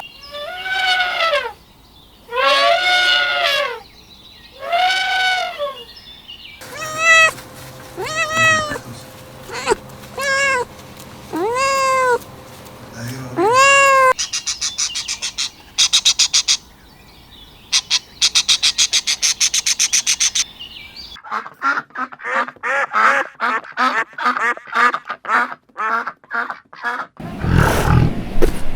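A run of different animal calls cut one after another. Three long arching calls come first, then a string of shorter calls that rise and fall. After that, two spells of rapid high chattering lead into a burst of fast rhythmic calls, and a brief loud low sound comes near the end.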